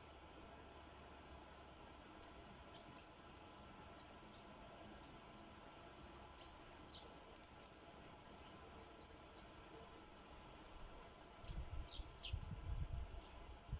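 Sparrows at a feeder giving short, high single chirps, faint, about one a second. Low rumbling thumps come in near the end.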